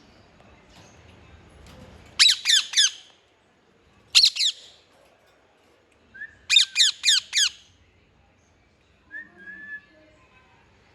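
Parrot squawking: a quick run of three sharp screeches that fall in pitch, then a single one, then a run of four, with a softer short call near the end.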